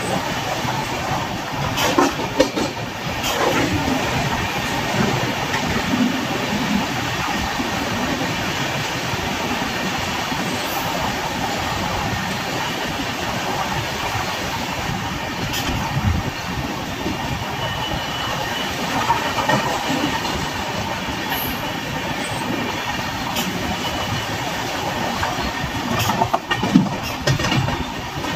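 Tamil Nadu Express passenger train running: a steady rumble of wheels on rails, with a few sharp clicks and knocks, a cluster of them near the end.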